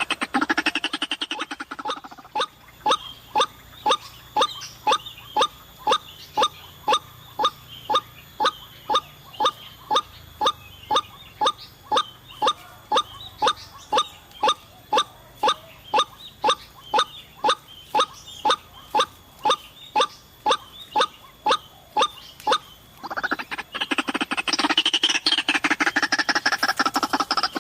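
White-breasted waterhen calls: a steady series of short, downward-sweeping 'kwak' notes about two a second, with a dense, busy run of calls at the start and again from about 23 seconds on.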